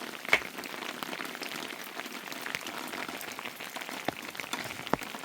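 Rain falling steadily, with many drops ticking close by and two sharper taps, one just after the start and one near the end.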